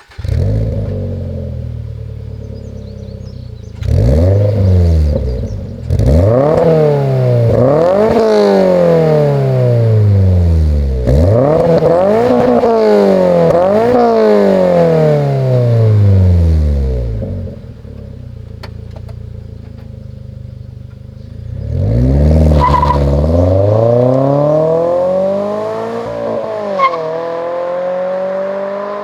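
2022 Toyota GR86 / Subaru BRZ 2.4-litre flat-four exhaust through a Remark Elite Spec stainless catback, starting up and settling to idle. It is then revved about six times in quick succession, drops back to idle, and is revved again with a slower climb near the end.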